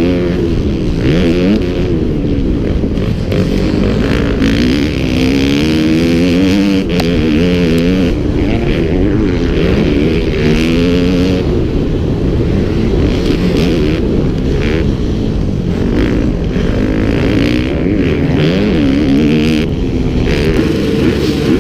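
Motocross dirt bike engines revving up and down repeatedly, their pitch rising and falling as the bikes ride the track, with more than one engine heard at times.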